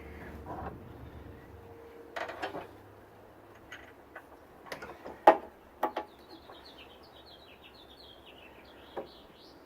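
Scattered clinks and knocks of metal hand tools against engine parts, the loudest a sharp knock about five seconds in. A bird chirps repeatedly in the background during the second half.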